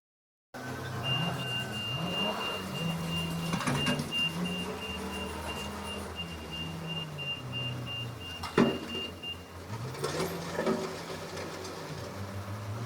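Diesel engine of heavy machinery working, its pitch rising and falling as it is revved, with a thin high whine for most of the time and a few sharp knocks, the loudest about eight and a half seconds in.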